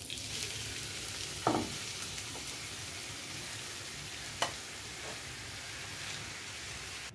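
Grated bottle gourd sizzling steadily in hot ghee in a kadhai as it is stirred, with the spatula knocking against the pan twice, about one and a half seconds in and again about four and a half seconds in.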